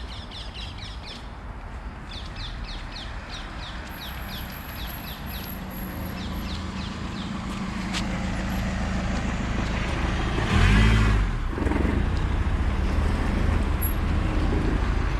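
Road traffic going by, slowly growing louder, with one vehicle passing close about ten seconds in. In the first half a small bird sings quick runs of short chirps.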